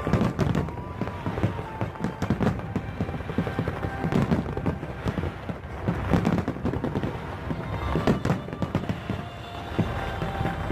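Fireworks going off in rapid succession, many short bangs and pops, over music playing.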